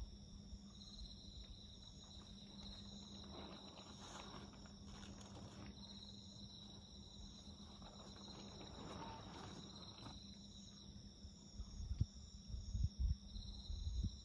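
Crickets and other insects trilling steadily in high, pulsing chirps over a wood fire burning with faint crackles. A low steady hum runs underneath, and a few loud low thumps come near the end.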